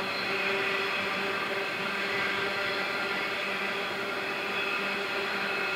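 Loaded grain hopper wagons of a freight train rolling past on the rails: a steady rolling noise with a faint steady hum underneath.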